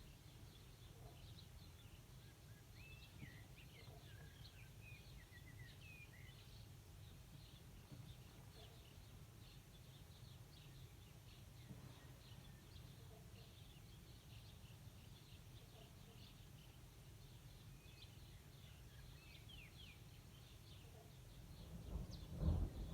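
Faint birds chirping and whistling over a steady low rumble of outdoor background noise. Near the end a much louder low rumble sets in.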